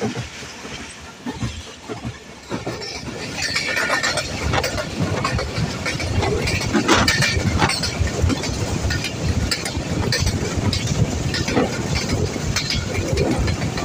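Passenger coach of a moving train heard from inside: steady rumble of the running gear with rattling and clatter of wheels on the track, growing louder about three seconds in.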